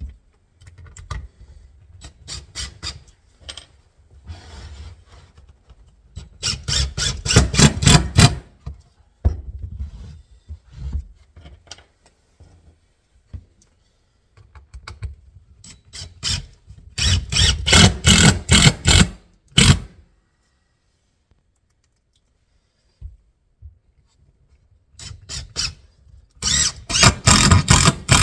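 A power drill-driver driving screws into wood in three runs of two to three seconds each, each run a rapid rattling with a squeal, and with lighter handling knocks in between.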